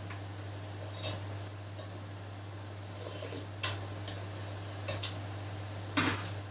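Kitchen utensils knocking and clinking against cookware, four short separate clinks over a steady low hum.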